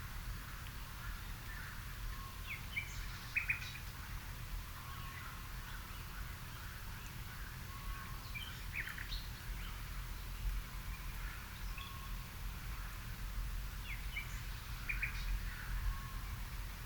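Songbirds singing in a garden: a short, quick phrase comes back about every six seconds, with softer single notes between. A steady low rumble runs underneath.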